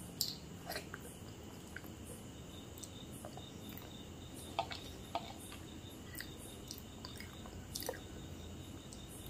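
Close-miked mouth sounds of a person eating: soft chewing with scattered small wet clicks and smacks, a few a second.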